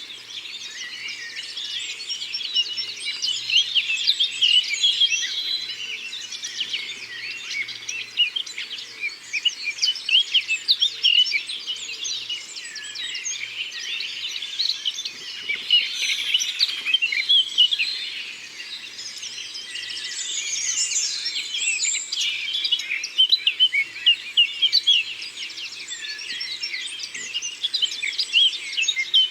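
Forest birdsong: many small birds singing and chirping at once, a dense, overlapping chorus of quick high trills and chirps with no break.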